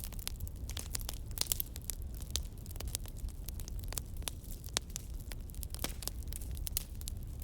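Wood fire crackling, with irregular sharp pops and snaps that bunch together about one and a half seconds in, over a steady low rumble.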